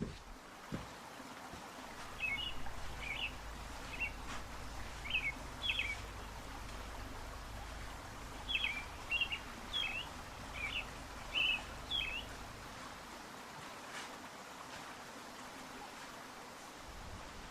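A songbird calling in two runs of short, sharp chirps, about six calls in each run, with a pause of a couple of seconds between the runs. The calls sit over a steady soft hiss of forest ambience.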